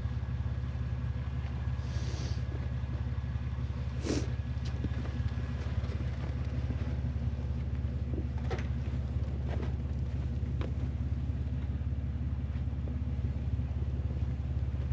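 Vehicle engine idling steadily, with a few short clicks over it.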